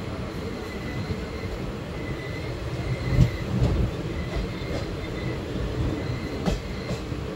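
ICF passenger coaches running on the track: a steady low rumble of wheels on rails with a few sharp knocks from rail joints, the loudest a little past three seconds in and another near six and a half seconds. A faint high whine from the wheels comes and goes.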